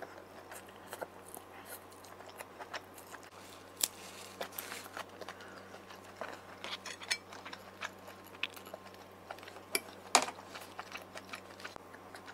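Close-miked eating: a person chewing fried vermicelli noodles and boiled pork, with scattered short mouth clicks and smacks, the loudest about ten seconds in.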